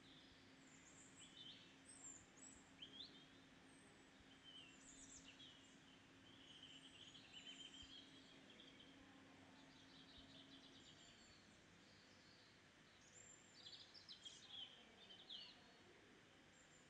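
Faint bird chirps: short rising chirps and quick trills in scattered clusters, over a low steady hum that stops about two-thirds of the way through.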